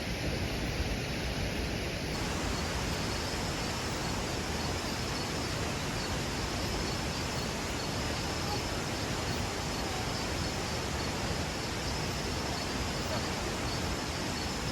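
Steady rushing of water, with a faint high-pitched pulsing tone over it.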